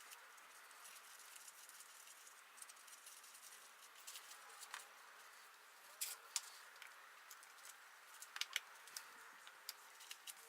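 Near silence with a few faint, scattered clicks and taps, a cluster of them about eight seconds in.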